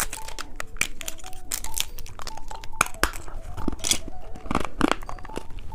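Plastic candy wrapper crinkling and tearing open, with many quick crackles.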